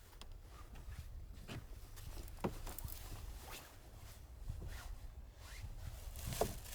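Scattered rustling and light knocks of something being handled or walked on, over a steady low rumble, with two sharper, louder clicks about two and a half seconds in and near the end.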